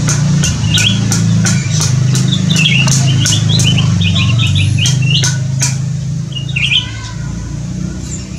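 Small songbirds calling: bursts of quick, high chirps, thickest in the middle, among scattered sharp clicks, over a steady low hum.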